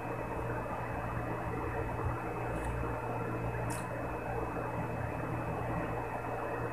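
A man chewing a mouthful of food, with two short wet mouth smacks in the middle, over a steady whirring background hum.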